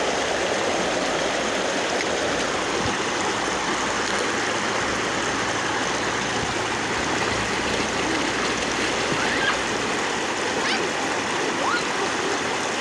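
River water rushing steadily, an even unbroken flow.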